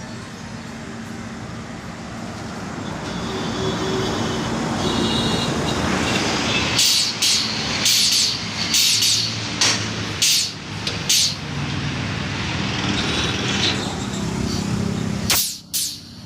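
Truck engine running steadily, with short sharp bursts of air hissing about once a second from about seven seconds in, and two more near the end.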